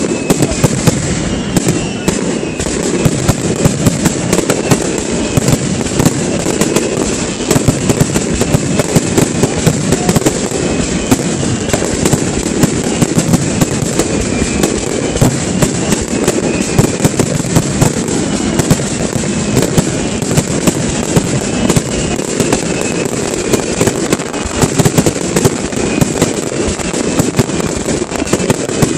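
Aerial fireworks display in a rapid, continuous barrage: shells bursting and crackling many times a second, without a break.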